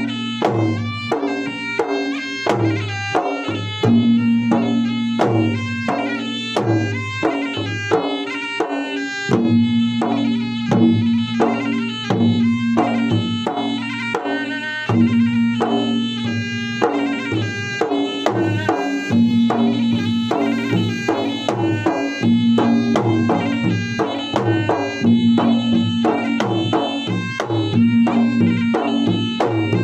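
Traditional Makassar gendang ensemble playing wedding music. The gendang drums beat a fast, continuous rhythm under a pitched melody that moves from note to note, with a held low note returning every few seconds.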